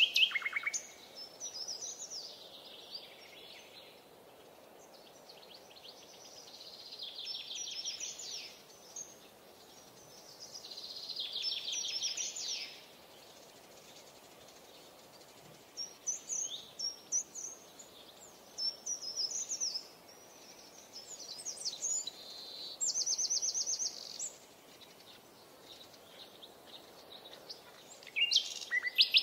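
Songbirds singing: short, high, trilled phrases every few seconds, with quiet pauses between them.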